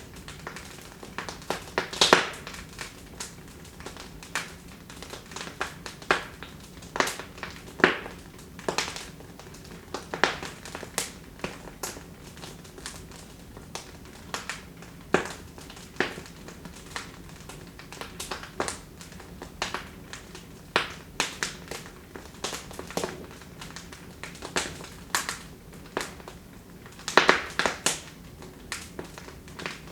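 Wood fire in a fireplace crackling, with irregular sharp pops and snaps over a faint steady hiss, a quick cluster of louder pops about two seconds in and another near the end.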